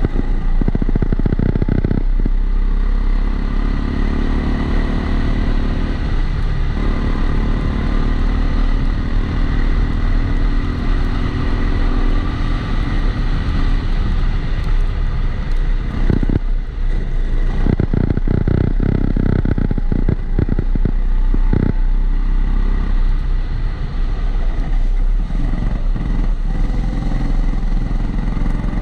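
Kombikart Eco kart engine running under load, recorded on board, its revs climbing along a straight, dropping about six seconds in, then climbing again. About two thirds through comes a stretch of rattling, against a regular extra noise that the uploader puts down to the camera being in a housing.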